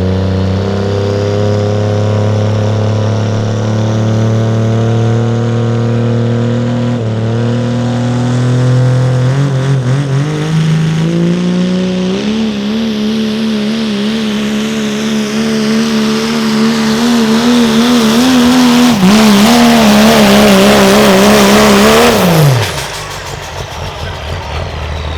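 Diesel pickup truck's engine under heavy load during a truck pull. The revs hold steady, climb about ten seconds in, hold high with a wavering pitch, then drop suddenly a few seconds before the end as the pull finishes.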